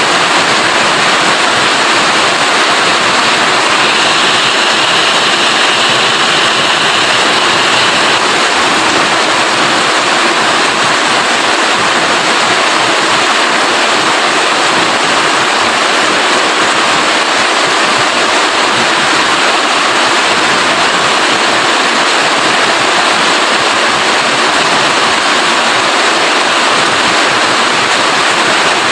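Rain falling steadily, an even, unbroken hiss of noise.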